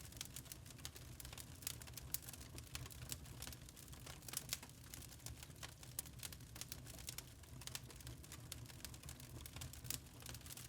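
Wood fire crackling and popping in a fireplace: irregular sharp snaps, a few louder pops among them, over a low steady rumble.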